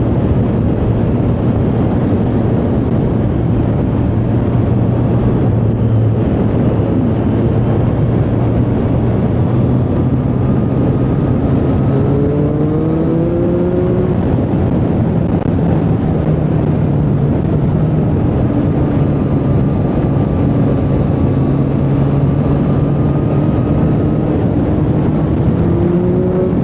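Triumph Street Triple 765R's inline three-cylinder engine running on the road. It holds steady revs at first, then climbs in revs about halfway through, settles to a steady cruise, and rises again near the end.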